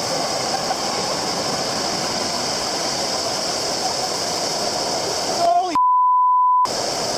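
A steady rushing roar with faint voices under it. About six seconds in, a loud single-pitch censor bleep cuts in for just under a second.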